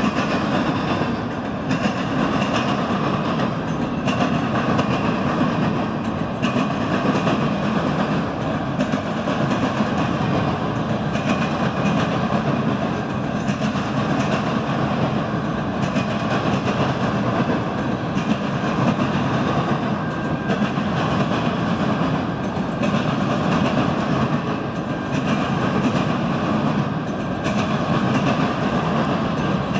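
Freight train cars rolling steadily past on the rails: a continuous heavy rumble of wheels on track with faint repeated wheel clicks.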